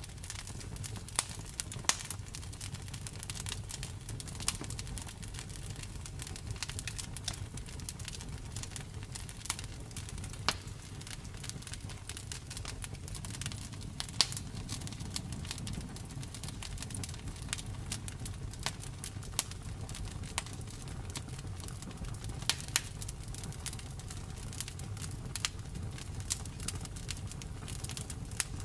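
Wood fire crackling, with irregular sharp snaps and pops over a low steady rumble of burning.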